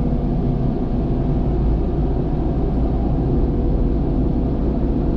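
Cat excavator's diesel engine running steadily under load as it digs out rocks, with a thin steady whine over the drone.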